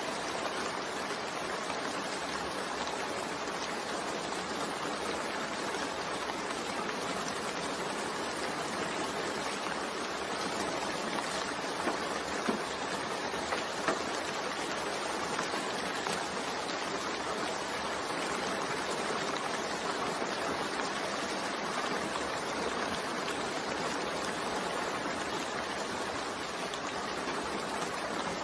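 Steady rain falling, an even hiss, with a few slightly louder drops about halfway through.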